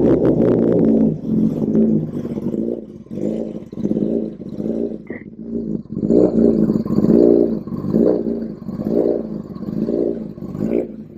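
2019 Kawasaki ZX-10R's inline-four engine blipped through an aftermarket Austin Racing exhaust. It runs loud for about a second, then is revved in quick throttle blips, one every half second or so, each rising and falling in pitch. The sound is really loud.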